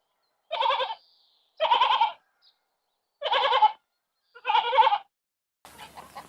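A farm animal bleating four times. Each bleat is a wavering call about half a second long, with short silences between them.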